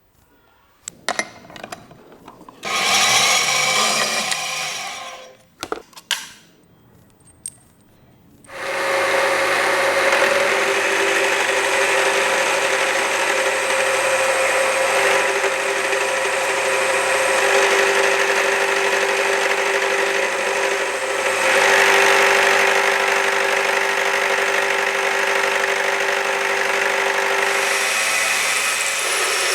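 A few clicks and a short burst of noise, then a power tool starts about eight seconds in and runs steadily, machining metal parts, with a steady mix of hum and cutting noise.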